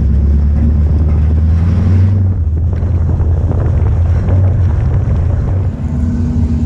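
Dirt track race car engine running under power on track, a loud steady drone with a brief change in tone about two seconds in.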